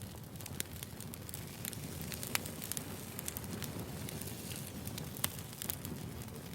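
Firewood burning: irregular sharp crackles and pops over a steady low rumble of the flames.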